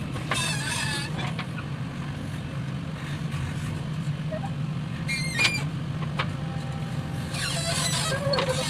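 A heavy diesel machine's engine running steadily with a low drone. A short high-pitched call cuts in about five seconds in.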